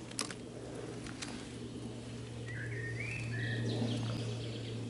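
Woodland ambience under a steady low hum, with a few short chirping bird calls about halfway through. A couple of small clicks come in the first second and a half.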